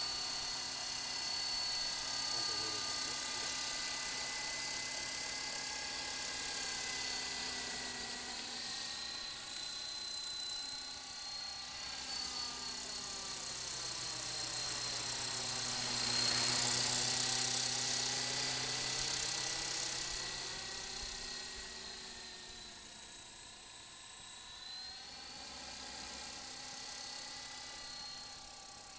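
Small electric RC helicopter (Walkera LM3) in flight: a steady high-pitched motor and rotor whine that grows louder as it comes closer around the middle and fades again near the end, its tone sweeping as it moves.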